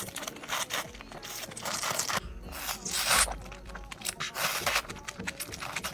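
Close-up eating sounds: irregular crunching and chewing with scraping noises, loudest about halfway through.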